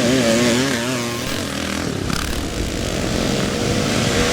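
Classic motocross bike engines racing, their pitch wavering quickly up and down as the throttle is worked.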